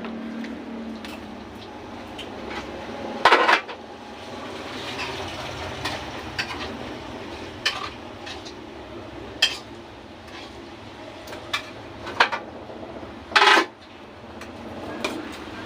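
Spoon and fork clinking and scraping against a plate during eating, in scattered sharp knocks a second or two apart, the two loudest about three seconds in and near the end.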